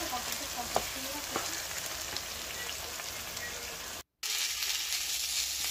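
Keema with peas and bell peppers sizzling in a frying pan as a wooden spatula stirs it, with a couple of light taps in the first second and a half. The sound cuts out for a moment about four seconds in, then a steady sizzle returns.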